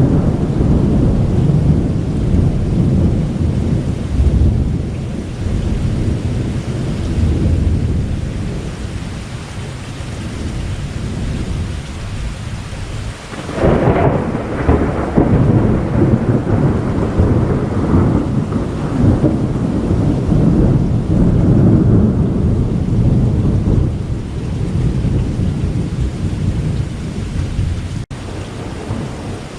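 Thunder rolling and rumbling over steady rain. About halfway through, a new, closer thunderclap breaks in with a sharper crack and then rolls on for several seconds before fading back to a lower rumble.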